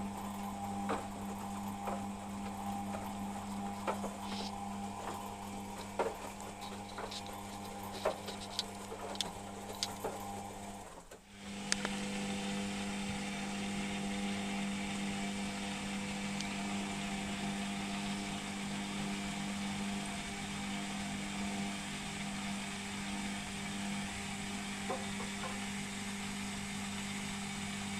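Beko WMP 601 W washing machine running with a steady motor hum and scattered light clicks and knocks as the drum turns. About eleven seconds in the hum drops away briefly, then the machine runs on steadily.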